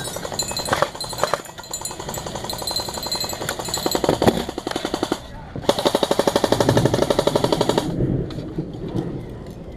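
Airsoft guns firing on full auto: a long run of rapid, evenly spaced shots, then a louder, faster burst of about two seconds that stops abruptly near the end.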